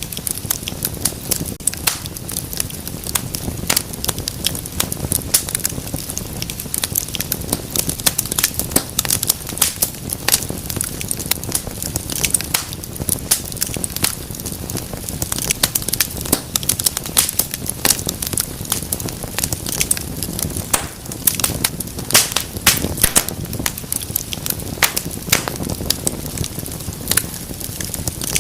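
Wood fire burning in a fireplace: a steady low rush of flames with dense, irregular crackles and pops throughout.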